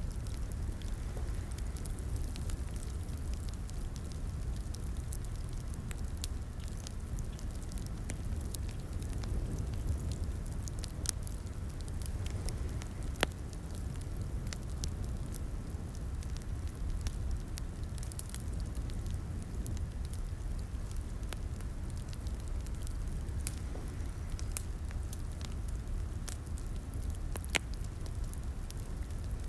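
Crackling fireplace: a steady low rumble of burning wood with scattered sharp pops and snaps, a couple of them louder.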